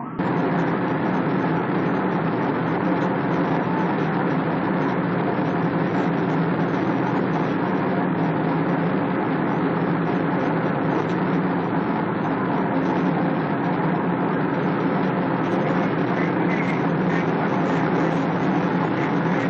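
Steady, loud vehicle noise: a continuous engine drone with a low hum and rushing noise, unchanging throughout, with no siren.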